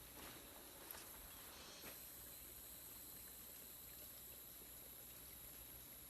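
Near silence: a faint steady hiss, with a few faint clicks in the first two seconds.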